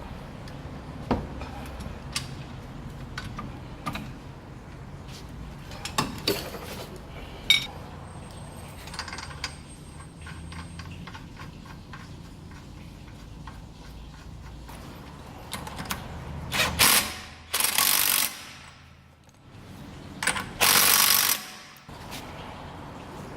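Hand tools working on a car's rear wheel hub: scattered metallic clicks and knocks. Near the end come two loud rushing noises, each about a second and a half long.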